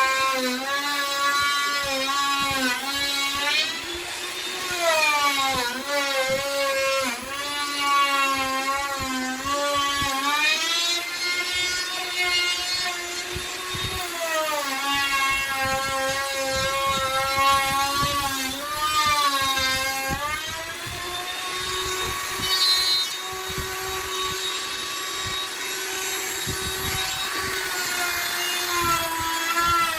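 Hand-held electric wood router running with a high whine while cutting a wooden door, its pitch sagging and recovering again and again as the bit takes and eases off the cut.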